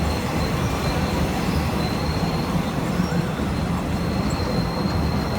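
Passenger train running: a steady low rumble of wheels and carriage, with a faint high squeal of the wheels on the rails.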